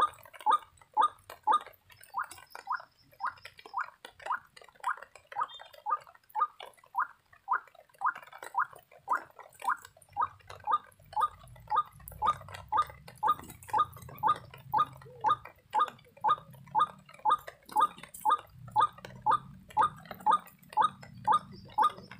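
White-breasted waterhen (ruak-ruak) calling: a steady run of short, repeated notes, about two to three a second, the lure call used to draw the birds into the snares.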